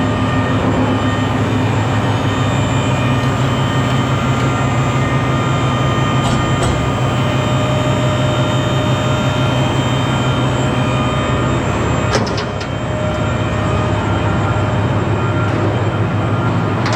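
Truck running down the road, a steady engine and road rumble heard from inside the cab, with a brief rattle about twelve seconds in.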